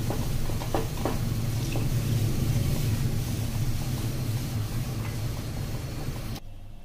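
Food sizzling in a pan over a steady low rumble, with a few light clicks of a utensil against the pan in the first second. The sound cuts off abruptly near the end.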